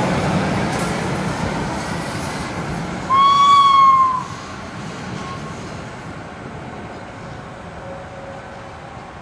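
Nyon–St-Cergue narrow-gauge electric railcar train running past and fading as it pulls away, with one horn blast of about a second roughly three seconds in.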